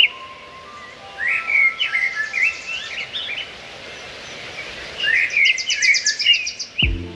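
A songbird singing two phrases of warbling whistles, each with a rapid high trill, over a faint steady background hiss. A low humming tone starts near the end.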